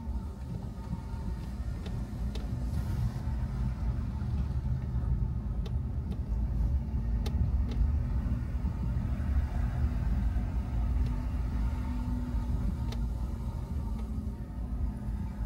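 Car driving along: steady low engine and road rumble with a constant hum, getting a little louder around the middle, with a few faint clicks.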